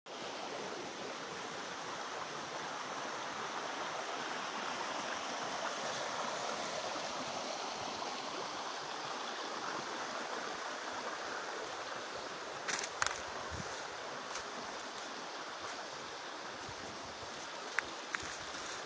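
Mountain stream rushing steadily, with a couple of sharp clicks about thirteen seconds in.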